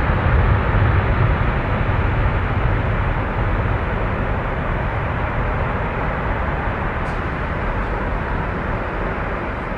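Jet airliner engine noise: a loud, even rush with a strong low rumble, slowly fading as the aircraft moves away.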